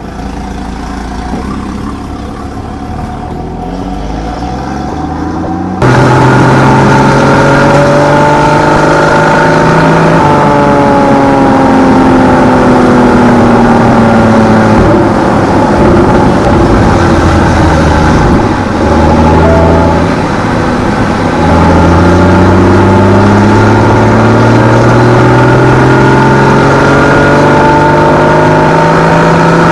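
Porsche Boxster 981's naturally aspirated flat-six engine through its stock exhaust, driven hard, its note rising and falling as the revs climb and drop. It cuts in loud about six seconds in, after a quieter stretch, and briefly dips twice past the middle before climbing again near the end.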